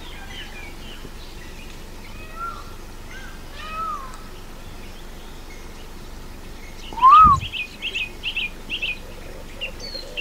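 Birds calling: scattered short chirps and whistles, then a louder rising-and-falling call about seven seconds in, followed by a quick run of chirps.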